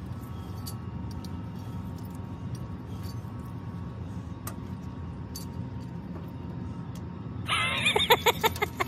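Light metallic clicks and clinks of a safety harness's buckles and hardware being handled, over a steady low rumble. Near the end, a short loud burst of voice in quick rising-and-falling pulses.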